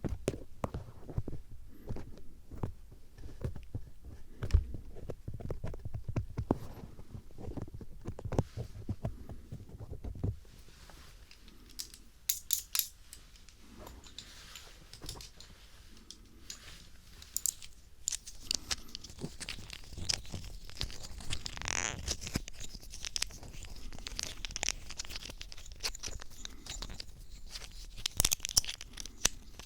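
Phillips screwdriver tip scraping and tapping close up in an ear, as in ASMR ear cleaning. Dense clicks and low thumps for about the first ten seconds, then softer, scratchier scraping.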